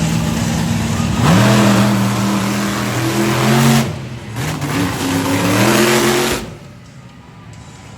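Monster truck engine running, then revved up twice, its pitch rising and holding before falling back each time. The sound drops away sharply about six and a half seconds in.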